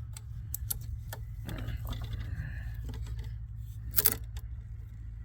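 Small metal parts clicking and clinking as they are handled during a breaker teardown, with one louder clatter about four seconds in, over a steady low hum.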